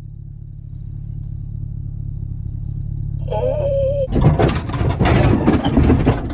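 Chevy 1500 pickup's engine running in four-wheel drive, its low hum building steadily as the truck pushes forward. A short high squeal comes about three seconds in, then loud rough crashing from about four seconds in as the truck drives into brush and branches.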